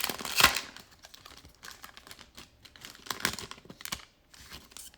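A 2020-21 NBA Prizm basketball card pack's wrapper being torn open, with one loud rip about half a second in, followed by soft crinkling and small clicks as the wrapper and cards are handled.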